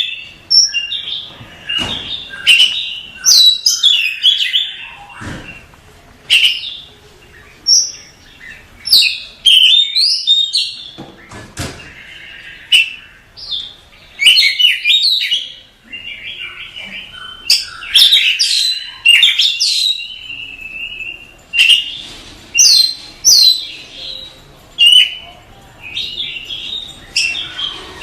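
Oriental magpie-robin singing a loud, varied song: short bursts of sweet whistles and scratchy chatter, one after another with brief pauses between phrases.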